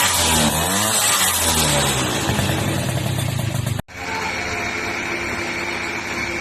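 Sanex QJ50 motorbike engine being revved through its exhaust in repeated blips, the pitch climbing and falling several times. About four seconds in, the sound cuts off abruptly and gives way to a steadier sound with a high whine.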